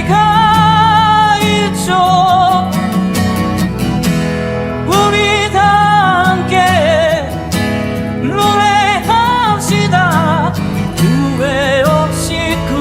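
Song: an AI-generated male singing voice with strong vibrato, holding long notes over acoustic guitar accompaniment.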